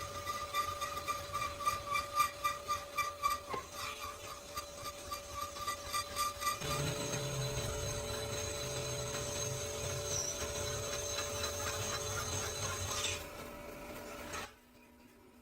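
Workshop tool work on metal: rhythmic rubbing strokes, about two to three a second, over a steady machine hum, then a steadier running sound that stops near the end.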